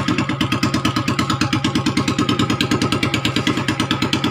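Motorcycle engine idling through a muffler-shop-made exhaust pipe, with a steady, fast, even exhaust beat.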